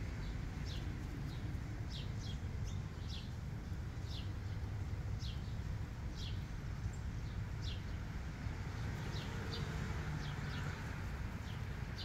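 Birds chirping: short, high chirps repeating about once or twice a second over a steady low rumble.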